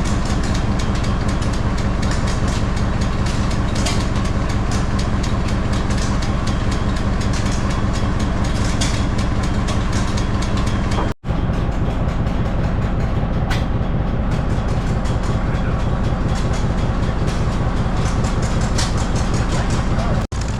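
Engine running steadily and close, with a fast, even firing rhythm over a low hum, cut off abruptly twice.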